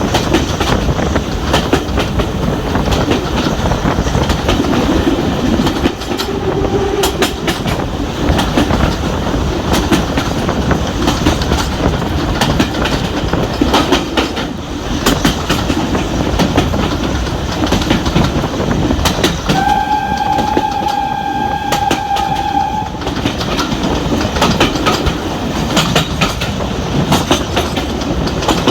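Railway carriage running along the track behind a steam locomotive: a steady rumble with wheels clicking over rail joints. About two-thirds of the way through, a single steady whistle blast lasts about three and a half seconds.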